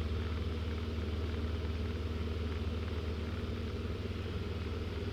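Steady drone of a Jodel DR1050 light aircraft's piston engine and propeller in level flight, heard from inside the cabin.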